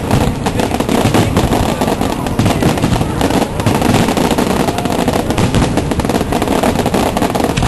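Fireworks going off in a dense barrage: rapid, overlapping crackling reports and bangs with no break.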